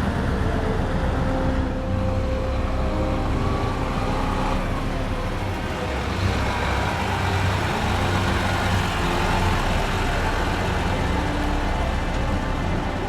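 Engines of ground military vehicles running steadily, several low engine tones over a continuous rumble.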